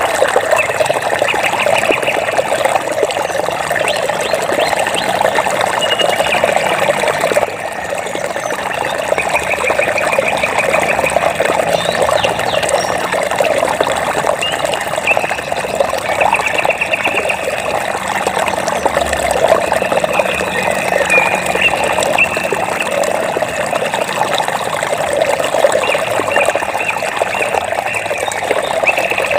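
Flowing water running steadily with a dense splashing texture. Over it, short high trills of rapid pulses come every few seconds, from a small animal such as a frog, insect or bird.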